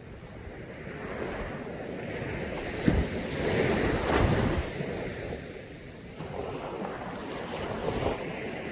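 Caribbean sea surf washing on a beach, swelling as a wave breaks about three seconds in and then easing off, with wind buffeting the microphone.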